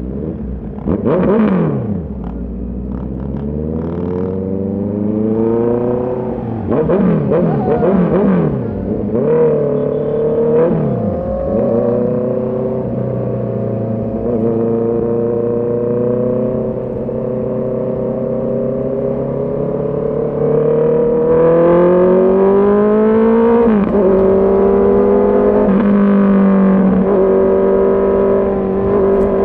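Honda CB650R's inline-four engine and exhaust under way. The revs rise and fall sharply several times in the first ten seconds or so, then settle into a steady cruise. They climb again about two-thirds of the way through.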